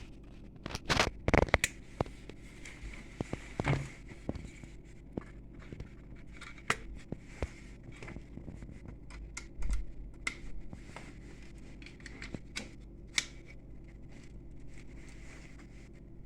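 Irregular clicks, taps and scrapes of tools and parts being handled on an electronics repair bench, over a steady low electrical hum.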